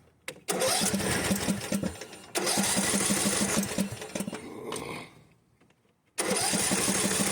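Briggs & Stratton riding-mower engine cranking on its electric starter without catching, an even rhythmic chug. It cranks for about four seconds, stops for about a second, then cranks again near the end. This is a no-start that the owner traces to the engine not getting gas.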